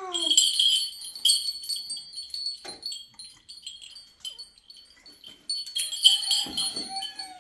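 Small metal bells jingling and ringing in bursts, loudest at the start and again about six seconds in, with a short falling pitched call right at the start.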